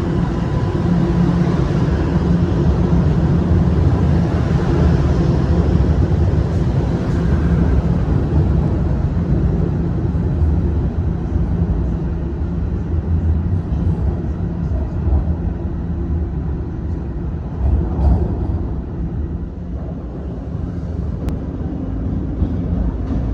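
TTC subway train running through a station: a steady, loud low rumble of wheels and motors with a faint steady whine, easing slightly near the end.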